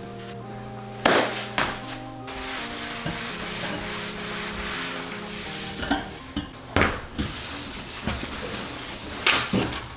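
Sanding on a pickup's body panels to prepare them for paint, a rough scratchy hiss for several seconds, under background music. Several sharp knocks and clicks in the second half.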